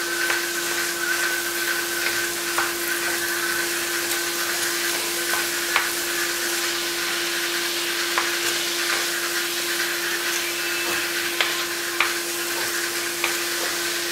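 Udon noodles, chicken and vegetables sizzling as they are stir-fried in a wok, with occasional light clicks of chopsticks against the pan over a steady hum.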